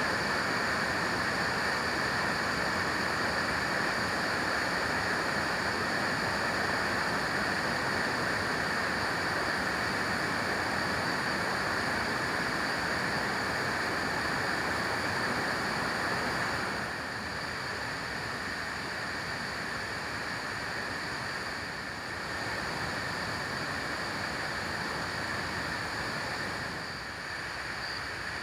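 Steady rushing water, a dense even hiss that drops slightly in level about two-thirds of the way through.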